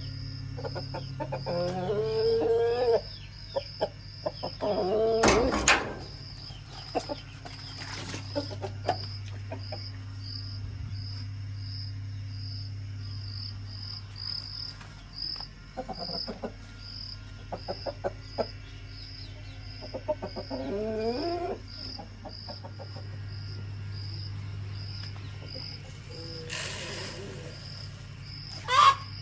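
Chickens clucking and calling, with a few longer calls standing out, over a steady fast chirping of crickets and a low hum.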